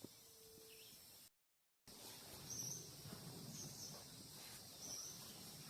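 Faint forest ambience with short, high chirps repeating about once a second, and a brief dropout to silence near the start where the recording is cut.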